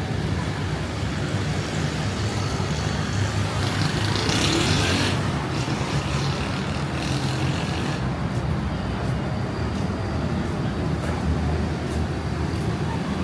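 Steady road traffic, cars and other vehicles passing, with a louder rushing swell about four seconds in.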